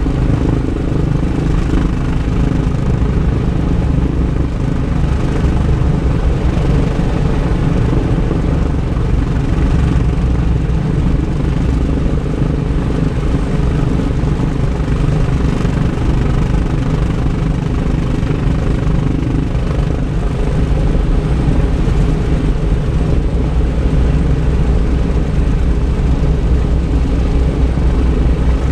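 Wright R-3350 radial piston engines of a Lockheed L-1049 Super Constellation running steadily on the ground, a loud, even, low-pitched rumble.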